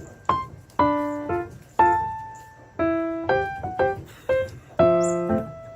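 Background piano music: a light melody of struck notes, each ringing and fading, in a slow steady rhythm.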